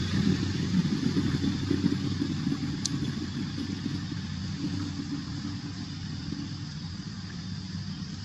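Low engine rumble, steadily fading away, with a brief faint tick about three seconds in.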